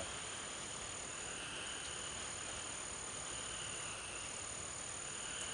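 Steady night chorus of crickets and other insects: a continuous high-pitched trill, with a lower trill that swells and fades every second or so.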